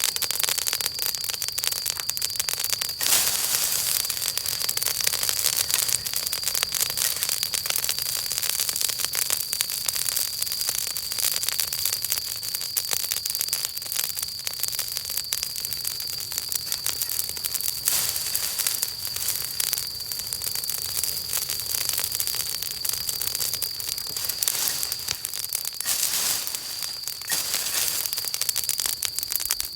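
Wood campfire crackling and popping steadily, a dense irregular patter of snaps with a few louder flurries of pops, and a thin steady high hiss underneath.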